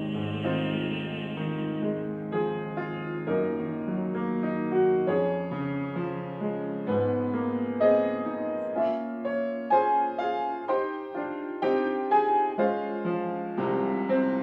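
Piano accompaniment of a classical art song playing a flowing solo interlude of separate, changing notes. In the first two seconds a trained singer's held note sounds over it before the piano carries on alone.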